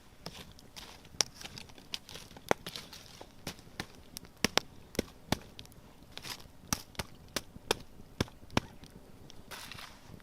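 Wood campfire crackling, with sharp irregular pops at uneven intervals over a low hiss.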